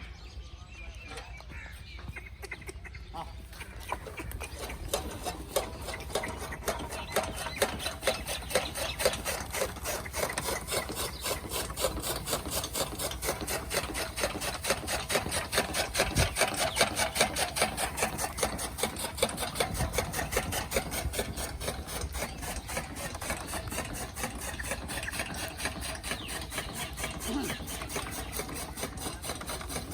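Old gear-driven chaff cutter worked by an ox, its gears and blades clattering in a rapid, even rhythm that builds up about four seconds in.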